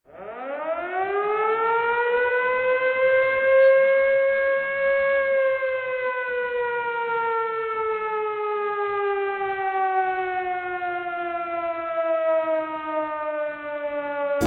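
A siren winding up: its pitch rises quickly over the first few seconds, levels off, then slowly winds down for the rest of the sound.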